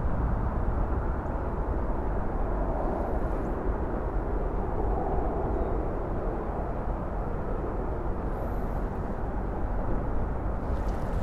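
Steady low rumbling background noise, strongest at the deep end, with no distinct events.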